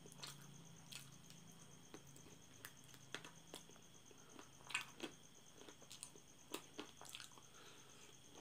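Faint wet chewing and sucking on chicken feet in curry sauce: irregular small mouth clicks and smacks, one louder click a little before five seconds in.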